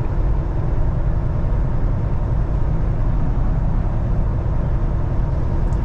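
Steady engine drone and road noise inside the cab of a Kenworth semi-truck at highway speed.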